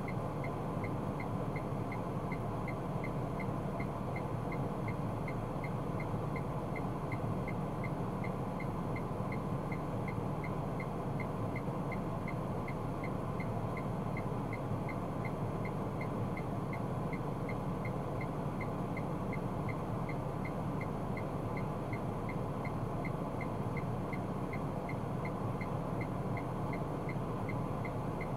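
Steady low hum of a car driving, as picked up by a dashcam. Over it, a short high tick repeats about twice a second.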